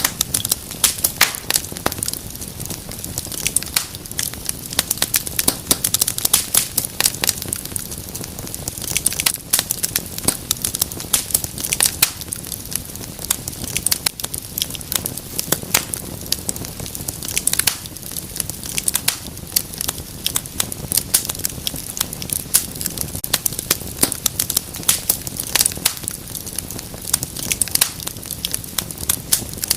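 Wood fire crackling: many irregular sharp pops and snaps over a steady hiss.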